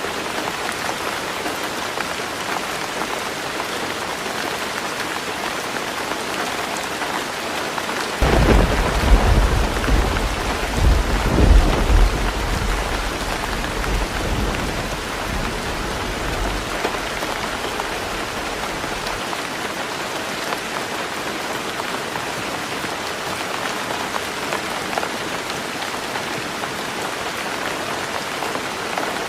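Heavy rain drumming steadily on a tin roof. About eight seconds in a thunderclap breaks out, with peaks a few seconds apart, and rumbles on for about ten seconds before dying away.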